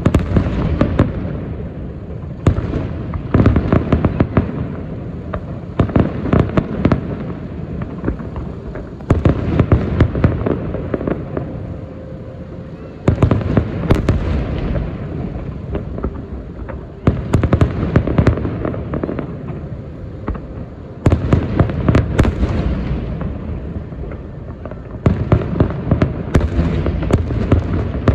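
Fireworks display: aerial shells bursting in rapid volleys of sharp bangs and crackles. A fresh, louder volley starts suddenly about every four seconds.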